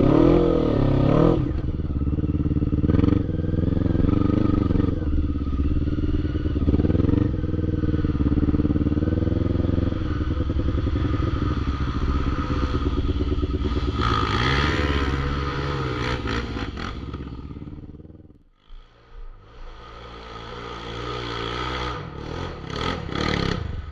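ATV engines revving hard off-road, the pitch rising and falling with the throttle. The sound drops away abruptly about three-quarters of the way through, then an engine builds up again.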